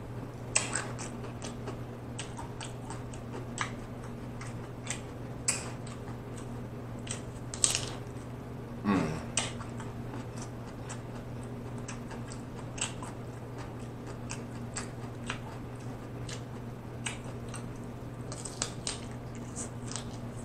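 Close-up eating sounds of broccoli florets being bitten and chewed, scattered crisp crunches and wet mouth clicks, the broccoli cooked so it keeps its crunch. A steady low hum runs underneath.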